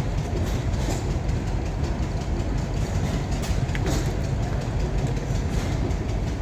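An engine running steadily, with a light repeated clatter over a low rumble.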